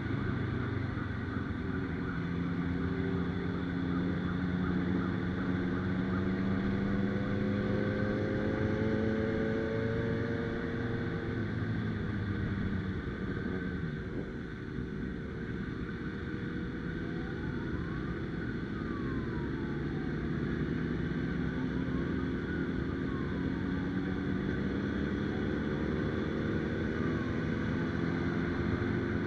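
Motorcycle engine running at a steady road speed with wind noise, its pitch drifting slowly up and down.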